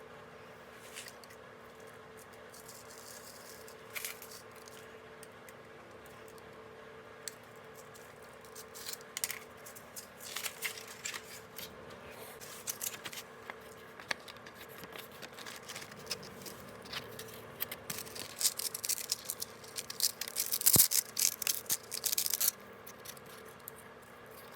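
Scissors cutting a sheet of 60-grit sandpaper: scattered scratchy snips and rustles that get busier and louder in the second half.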